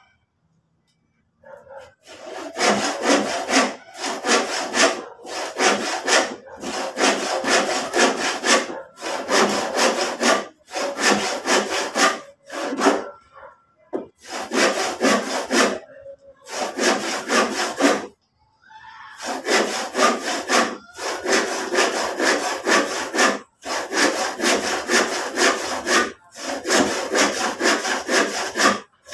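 Hand saw cutting through a piece of used wooden lumber in rapid back-and-forth strokes. It starts about two seconds in and breaks off in short pauses every second or two.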